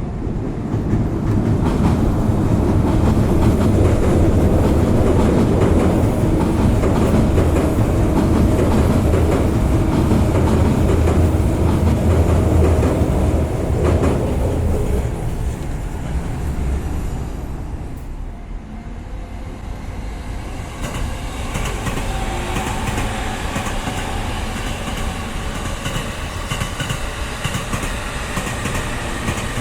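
Electric train passing on the railway beside the road, a loud clattering rumble that fades away about fifteen seconds in. A quieter sound with a steady whine follows.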